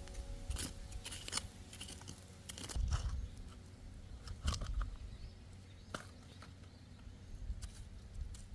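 Irregular small clicks and crunches, with a few soft low thumps, over a quiet background.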